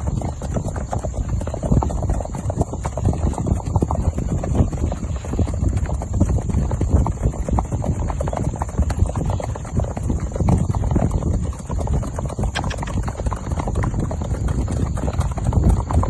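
Hoofbeats of a Mangalarga horse, a dense, continuous run of quick knocks on the ground.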